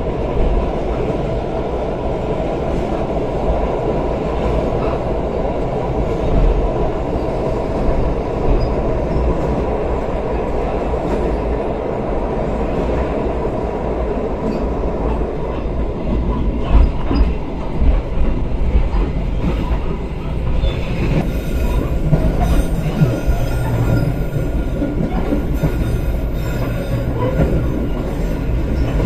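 Argo Parahyangan passenger train running along the track, heard from inside the carriage: a steady, loud rumble of wheels on rails. A run of sharper knocks comes a little past the middle.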